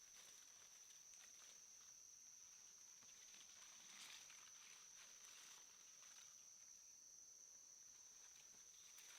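Faint night-time insect chorus: a steady, high-pitched drone, with scattered light ticks and rustles, slightly stronger about four seconds in.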